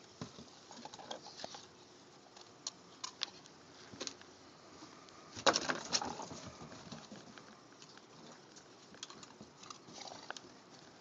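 A dog chewing a big piece of ice: scattered crunches and cracks, with a louder run of crunching about five and a half seconds in.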